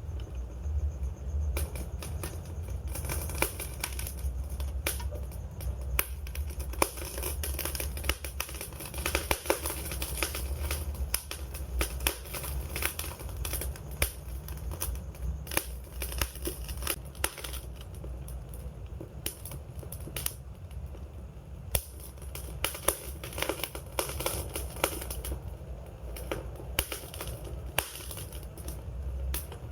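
Wood fire crackling: frequent sharp, irregular pops and snaps over a steady low rumble.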